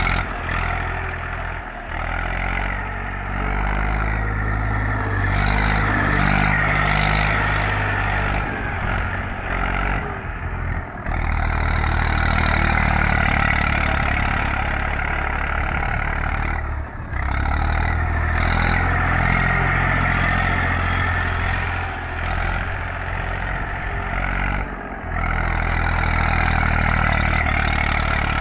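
Eicher 380 tractor's diesel engine running as it works a paddy field, its pitch shifting up and down, with short dips in level about four times.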